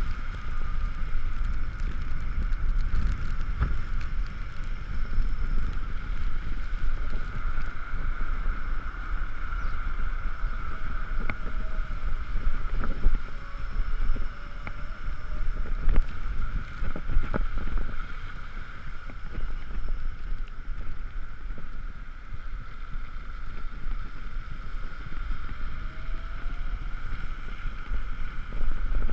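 Riding an Ekoway ML5000 electric scooter in the rain: wind rumbling on the microphone and tyre noise on the wet road, over a steady high whine, with a few sharp knocks about halfway through.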